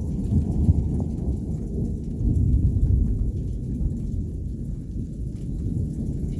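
Thunder rumbling low and deep during a rainstorm, swelling about half a second in and again from two to three seconds in, with faint patter of raindrops.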